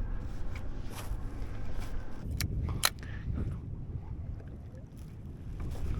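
Low rumble of water and wind around a drifting fishing kayak, with two sharp clicks about two and a half seconds in.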